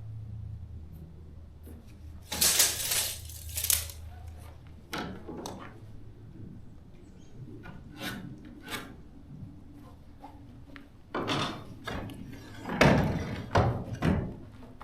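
Wood being handled: several short bursts of scraping and knocking, with a low steady hum in the first few seconds.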